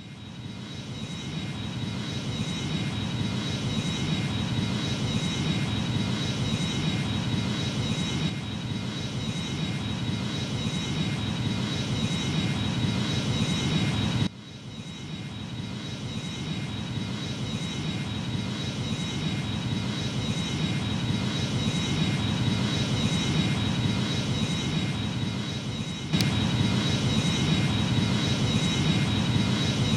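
Airbus A310's jet engines running at high power, a steady loud rush with a high whine on top. The sound swells at the start, drops off abruptly about halfway and builds again, then jumps louder near the end.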